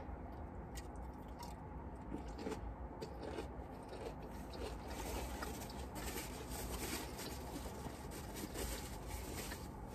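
Quiet chewing with small, irregular clicks and handling noises inside a car cabin, over a low steady hum.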